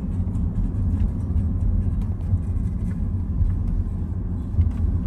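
A car driving: a steady low rumble of engine and road noise, with a few faint ticks over it.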